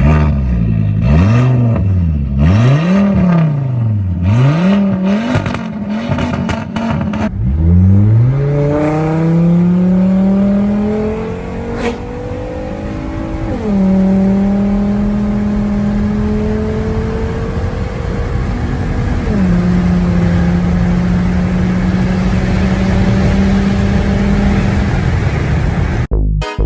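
Straight-piped 2004 Volvo S60R's turbocharged inline five-cylinder engine. It is revved several times in quick succession while stationary. Then it runs under load, rising steadily in pitch, drops sharply at a gear change, and holds a steady note, with a second drop at another shift about two-thirds of the way through.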